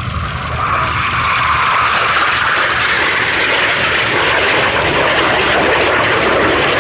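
Jet fighter flying past with a loud, steady engine roar that swells about half a second in.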